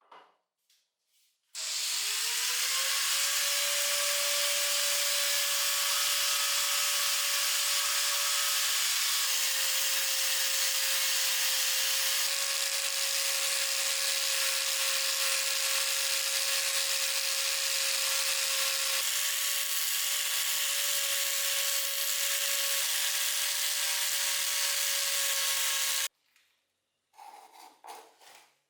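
Handheld electric power tool spinning up with a rising whine about one and a half seconds in, then running at a steady pitch over a dense hiss, and cutting off suddenly near the end. A few light handling clicks come before and after.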